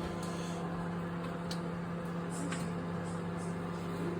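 Microwave oven running: a steady hum from the oven while the turntable slowly turns, with a couple of faint ticks.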